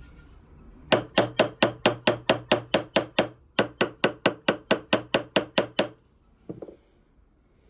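Ball peen hammer tapping an 18 karat gold ring on a steel ring mandrel, in two quick runs of light, evenly spaced metallic taps, about six a second, with a short pause between them. The taps reshape the soft gold shank toward its size.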